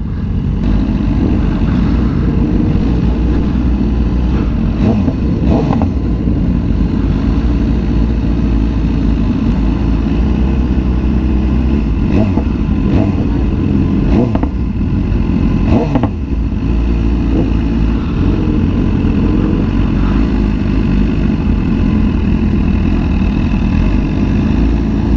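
Sport motorcycle running at speed, its engine rumble mixed with heavy wind noise, with a few brief swells in the engine note.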